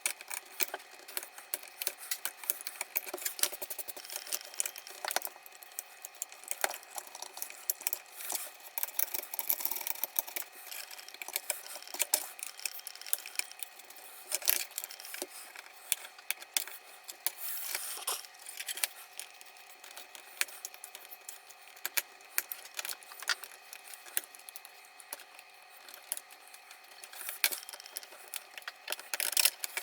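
Irregular light clicks and clinks of small hard objects being handled, with faint steady tones underneath.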